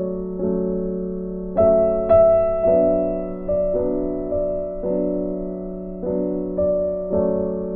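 Slow, gentle piano music: soft chords and single notes struck about once a second, each ringing and fading.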